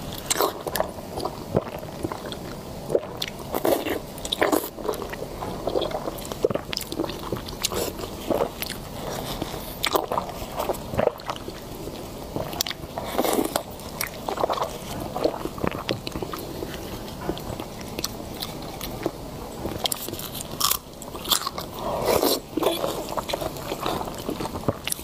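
Biting and chewing of soft congealed duck blood dressed in chili oil, with irregular mouth clicks.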